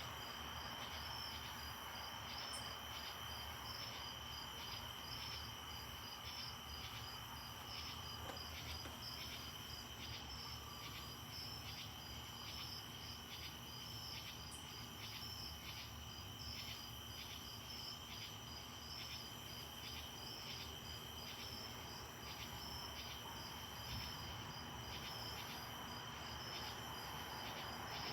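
Crickets chirping steadily: a continuous high trill together with a second, evenly pulsed chirp.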